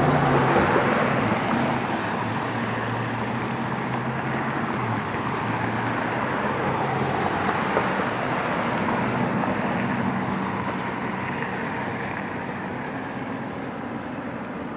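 Front-loader garbage truck's engine running, strongest at first and then slowly fading.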